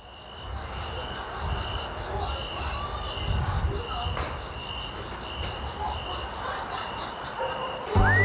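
Night insects, crickets, chirping outdoors. One continuous high trill runs under a lower chirping that pulses on and off.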